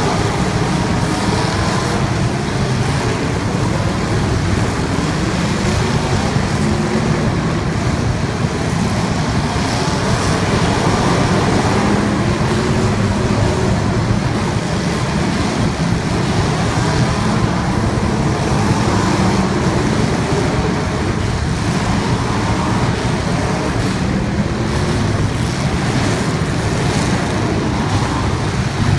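Several race car engines running together, their pitch rising and falling continuously as the cars rev and back off in a steady, dense engine din.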